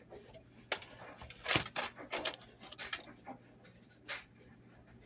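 Small parts of a Lionel 253 toy locomotive, its body and frame, being handled on a workbench: a run of irregular clicks and light knocks, the loudest about one and a half seconds in.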